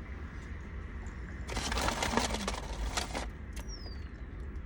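Close-up eating sounds: a dense burst of crackling clicks, about a second and a half long, starting about a second and a half in, over a low steady rumble.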